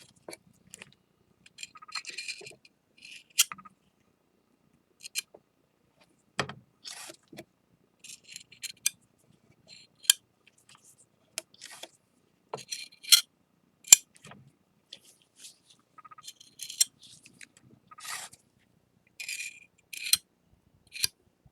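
Short scrapes and clicks of a small tool working sticky flour-and-lacquer paste onto the broken edges of a ceramic piece, with sharp clicks now and then as tool and shard touch.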